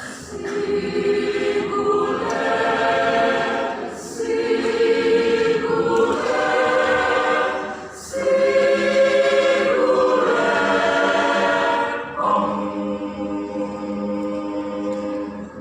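Church youth choir singing in several-part harmony, in long held phrases with short breaks about every four seconds, ending on a long sustained chord that stops near the end.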